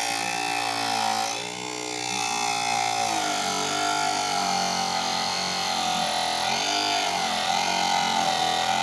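Homemade mini table saw driven by a 12-volt 775 DC motor, running with a steady whine whose pitch sags and recovers a couple of times as the blade is pushed through wood.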